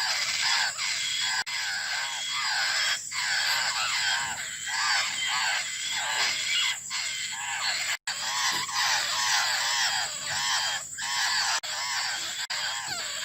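Laughingthrush nestlings begging, calling for the parent to feed them. Many short calls rise and fall in pitch, repeated rapidly and overlapping in a dense, continuous stream.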